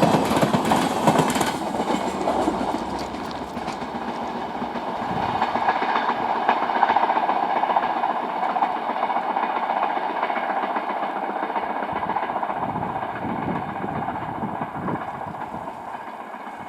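Passenger train of new Amrit Bharat coaches rolling past on the rails, wheels clattering. A loud rush in the first second and a half gives way to a steadier rolling sound that slowly fades.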